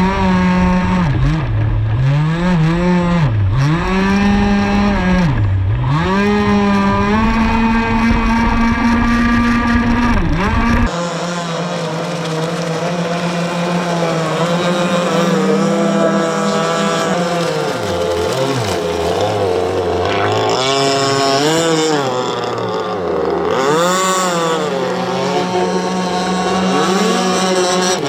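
Gas two-stroke engine of a 48-inch RC catamaran speedboat running on the water during its break-in, its pitch dropping and climbing again and again as the throttle is eased off and opened. About eleven seconds in, the low rumble under it suddenly drops away and the engine runs steadier, with further dips later.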